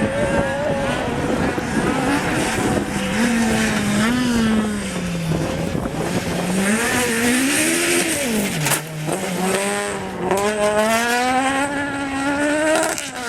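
Rally car engine running hard, its pitch climbing and falling with gear changes and braking, with a sharp break about nine seconds in.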